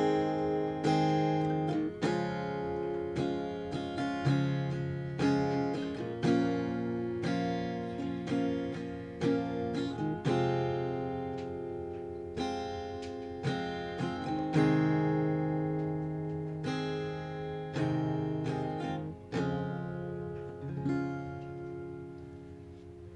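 Acoustic guitar strumming and picking chords as an instrumental outro, slowly fading out.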